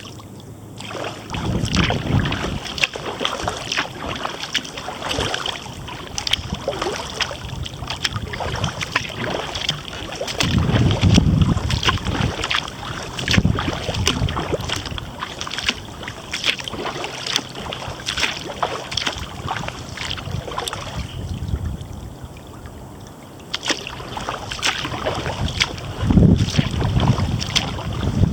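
Kayak paddling: the paddle blades dipping and splashing with water dripping off them, in a run of quick sharp splashes that eases off briefly later on. Gusts of wind rumble on the microphone now and then.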